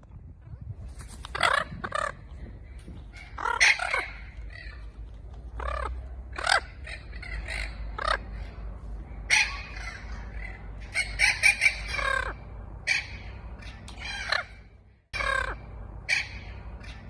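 Macaw calling: a dozen or so short, harsh squawks at irregular intervals, some in quick clusters, over a steady low background rumble.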